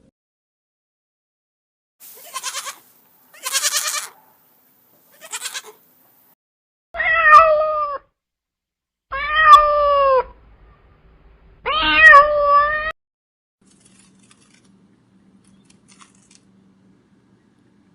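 Cat meowing three times, each meow about a second long and falling in pitch. The meows come after three shorter, breathy noise bursts.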